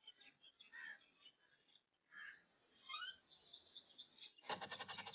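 Small birds chirping: scattered short high chirps, then a quick run of high notes. Near the end a loud bleat from farm livestock cuts in.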